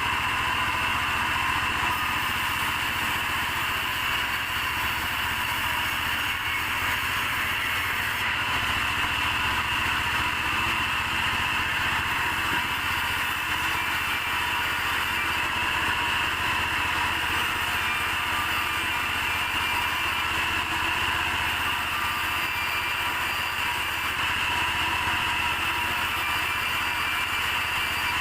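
Sawmill machinery running steadily with an even hum and a high, constant whine that does not change.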